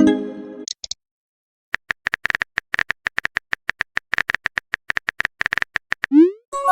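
Rapid, irregular phone-keyboard typing clicks for about four seconds, framed by messaging sound effects: a fading chime at the start, and near the end a short rising swoosh followed by a chime as a message is sent and received.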